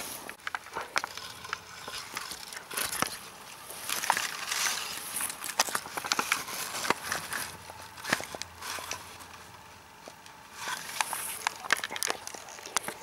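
Grass and plant stems rustling, with many sharp crackles and snaps, as wild strawberries and daisies are picked by hand in a meadow; the rustling swells in short spells a few times.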